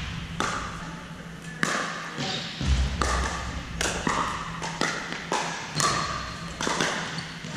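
Pickleball rally: paddles hitting the plastic ball back and forth in sharp pops, about one a second, echoing in a large hall.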